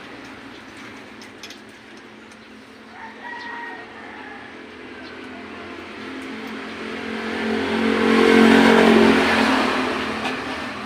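A motor vehicle engine running, building up for a few seconds to its loudest about eight seconds in and then fading away, like a vehicle passing by.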